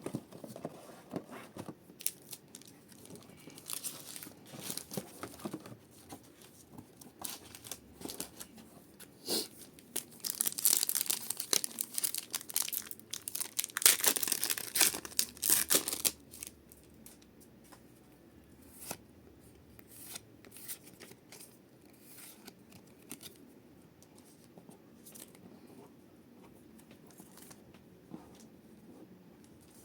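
Pokémon card booster packs being torn open and their foil wrappers crinkled, in bursts of ripping and rustling that are loudest from about ten to sixteen seconds in. After that come lighter rustles and a few taps.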